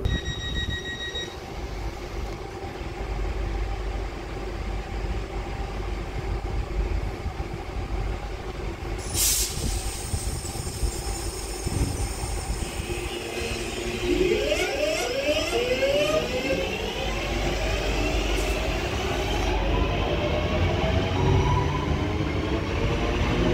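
Electric multiple-unit train running through on overhead-wire electrified track: a low rumble of wheels on rail, with traction-motor whine that rises in pitch from about halfway through and grows louder as the train comes past near the end. A sharp click about nine seconds in.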